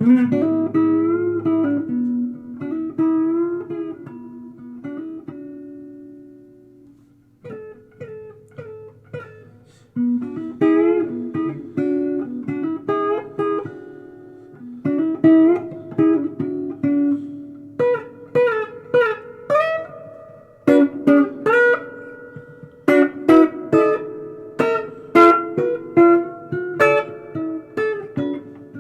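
Solo guitar improvising blues-style lead lines, with notes bent up in pitch. The playing thins briefly a few seconds in, then picks up again, and from about two-thirds of the way through it turns to quicker, sharply picked runs.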